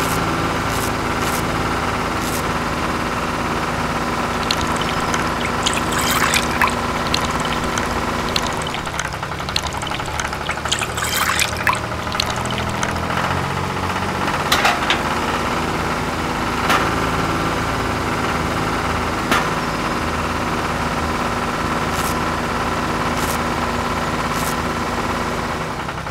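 Small motor of a miniature belt-driven fruit crusher running steadily, with scattered crunching clicks as grapes are fed in and crushed.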